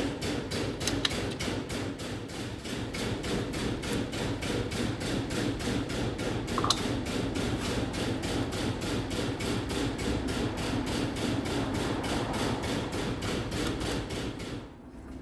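Rapid, evenly paced knocking, about four or five blows a second, over a steady low machine hum, stopping abruptly shortly before the end.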